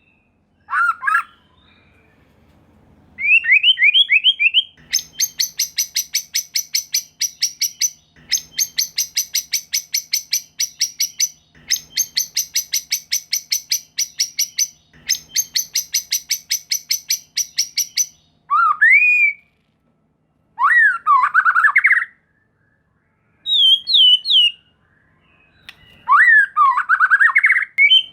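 White-rumped shama (murai batu) singing: a rising whistled phrase, then four long runs of fast, even, dry rattling notes, several a second, followed by separate varied whistled phrases with short pauses between them.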